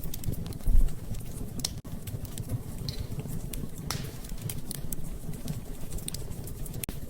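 Wood fire in a fireplace crackling, with irregular sharp pops and a low thump just under a second in.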